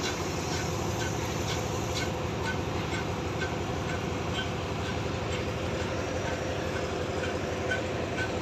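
Heavy crane engine running steadily while lifting a concrete bridge girder, with a faint regular tick about twice a second.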